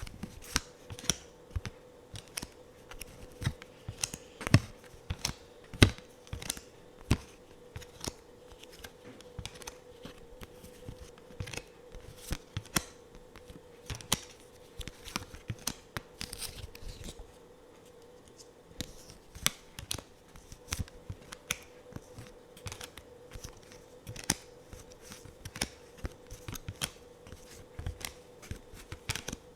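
Tarot and oracle cards being handled: irregular sharp taps and clicks as cards are tapped, flicked and set down, with a short quieter stretch a little past the middle. A faint steady hum runs underneath.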